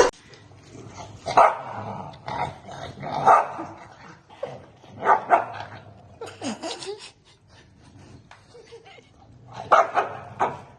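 A dog barking in short single barks with pauses between them, and a quick run of two or three barks near the end.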